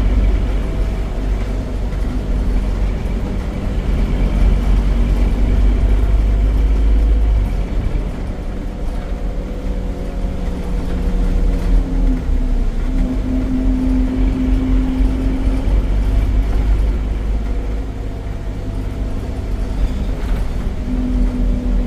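Scania OmniCity bus's five-cylinder DC9 9.3-litre diesel with ZF automatic gearbox running under way. A heavy low rumble for the first seven or so seconds eases off, then a steady hum comes in about twelve seconds in and again near the end.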